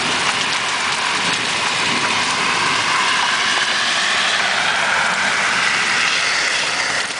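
Heavy hail, stones bigger than golf balls, pelting down in a dense, steady clatter of hits with almost no rain.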